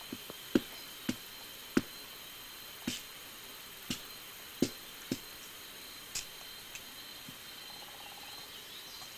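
Steady high-pitched insect song holding two even tones, with about ten irregular sharp clicks or taps over it, the loudest about half a second in and again near two and five seconds.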